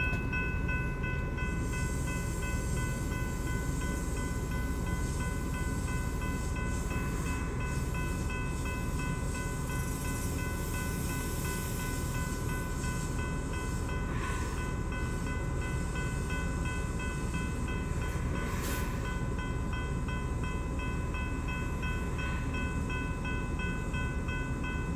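Metro-North commuter train standing at a station platform, its onboard equipment humming: a steady low rumble under an unchanging high-pitched whine.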